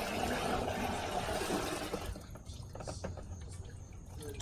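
Liquid pouring in a rushing stream for about two seconds, then stopping, followed by a few light knocks.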